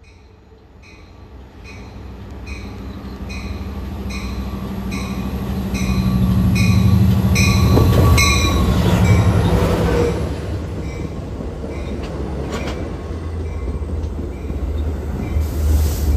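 LIRR DM30AC diesel locomotive pulling bi-level coaches into a station: its engine drone grows louder as it approaches, is loudest as it passes about 7 to 10 seconds in with a brief wheel squeal, then eases as the coaches roll by, with a clank near the end. A bell rings steadily about once every 0.7 seconds.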